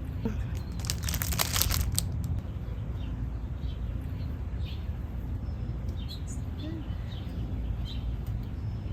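Small backyard birds chirping faintly now and then over a steady low rumble, with a short burst of rustling clicks about a second in.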